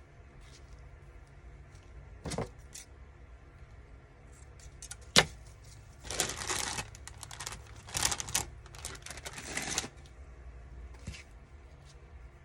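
Paper and card tags being handled on a craft table: a few sharp taps, then bursts of paper rustling and shuffling from about six to ten seconds in.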